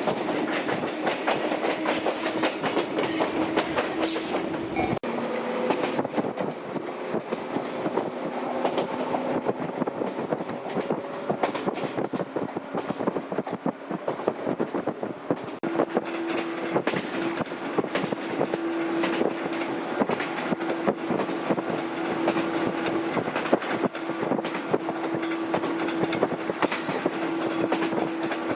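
Old JNR-type electric train running on the rails, a dense clatter of wheels over the track with a steady hum.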